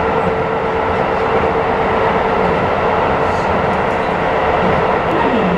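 Keisei Railway commuter train running, heard from inside the passenger car: a loud, steady running rumble of wheels on rail with a steady hum, and a short tone falling in pitch near the end.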